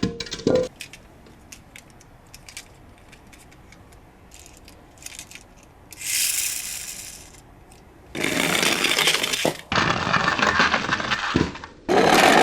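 Die-cast toy cars clicking and rattling, with two longer runs of rattling, rolling noise in the second half as they run down a slope.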